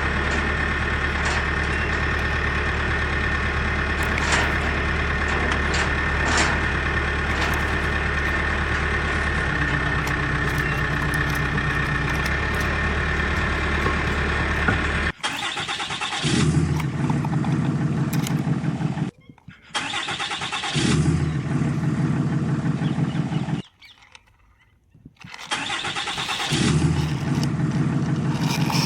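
Vehicle engine sound effect: a motor running steadily, then cut off abruptly about halfway through, followed by three separate engine bursts of three to four seconds each, each starting and stopping sharply with short gaps between.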